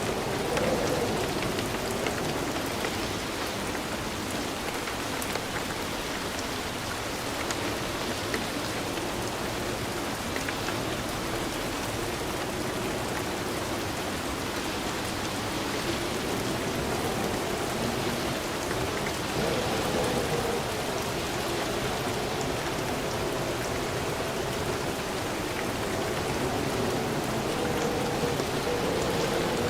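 Steady rain falling, an even hiss of drops on a surface with scattered sharper drop ticks.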